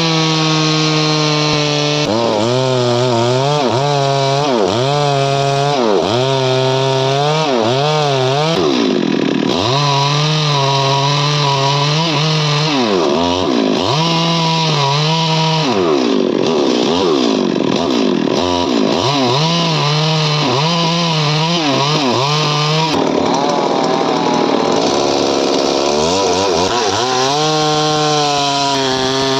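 Stihl MS 382 two-stroke chainsaw running loud at high revs while cutting wood. Its engine note holds steady in stretches, then rises and falls over and over, about twice a second, as the throttle and the load on the chain change.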